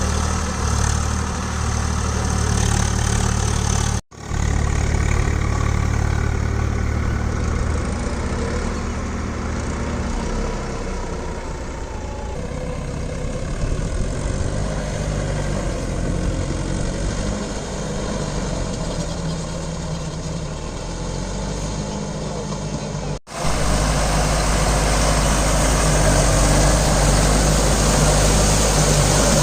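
Diesel tractor engine running steadily, its pitch shifting a little through the middle stretch. The sound drops out for an instant twice, about four seconds in and again about five seconds before the end.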